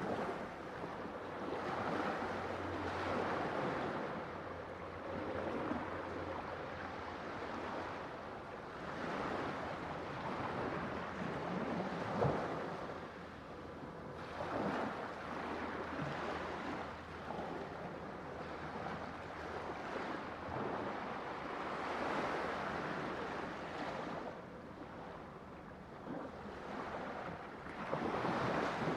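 Ocean surf, waves breaking and washing in, swelling and easing every few seconds, with one sharper crash about twelve seconds in.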